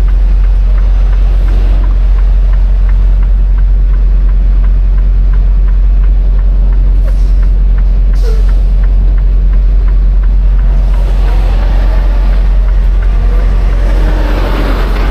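Semi-truck's diesel engine running in the cab during slow low-speed backing manoeuvres, a loud steady low rumble. A light regular ticking runs over it through the first half.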